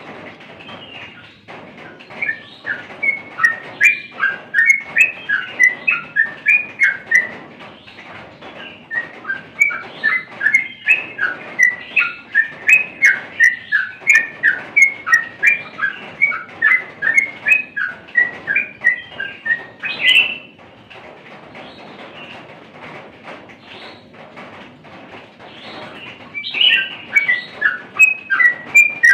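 A bird calling in long runs of short, repeated chirping notes, about three a second, with a pause of several seconds in the middle and another run starting near the end.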